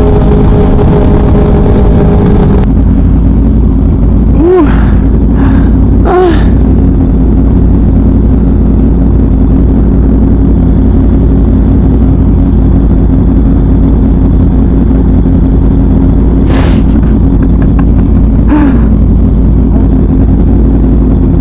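2017 Yamaha R1's crossplane inline-four with a Leo Vince exhaust, running loud at steady revs while riding. The engine's pitch swoops up and back down briefly about four and six seconds in, and once more a few seconds before the end.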